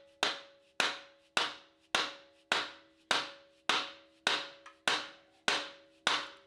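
Hammer blows on a steel cylinder pin of a tractor backhoe, struck to drive the pin out: eleven even blows, about two a second, each with a short metallic ring.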